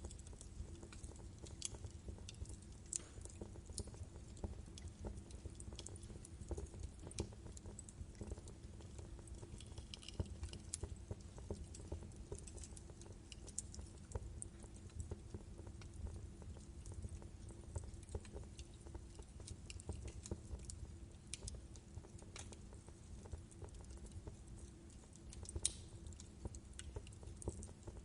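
Wood fire in a fireplace crackling, with frequent small sharp pops over a low steady rumble of flames; a louder pop near the end.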